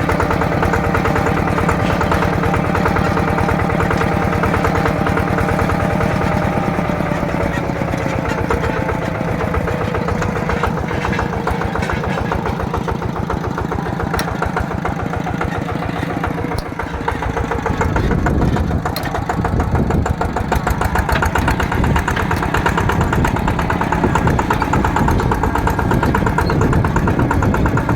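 Yanmar TF120 single-cylinder diesel engine running under way with a rapid, even chugging beat. Its note eases down a little from about six seconds in, and from about seventeen seconds the sound turns rougher and heavier in the low end.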